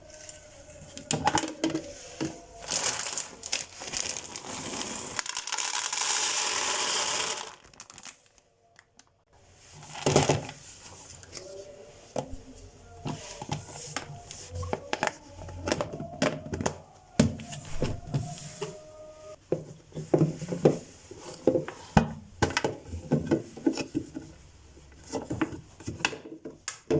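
Plastic packaging crinkling for several seconds, then a run of light knocks and clicks as kitchen containers and goods are handled and set down.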